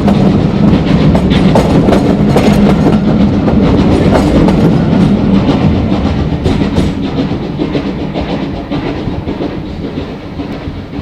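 Steam train running past on the track, wheels clicking over the rail joints over a steady rumble, the sound fading away in the second half as it draws off.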